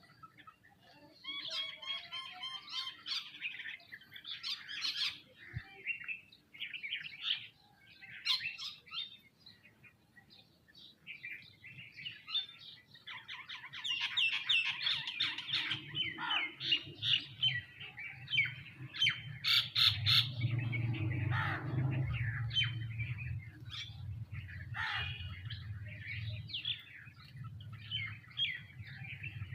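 A feeding flock of sparrows and mynas chirping and calling over one another, thick with overlapping chirps and some harsher calls. A low hum runs underneath from about halfway through.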